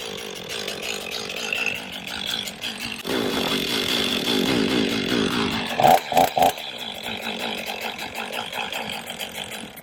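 Stihl MS500i fuel-injected two-stroke chainsaw running. About three seconds in it gets louder, and three short sharp peaks come near the middle before it settles back.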